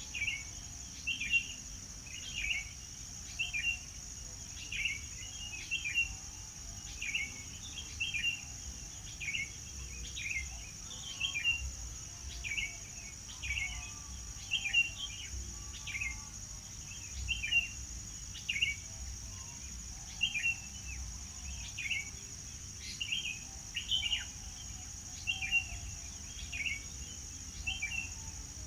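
A songbird repeating a short chirping phrase about once a second, over a steady high-pitched drone.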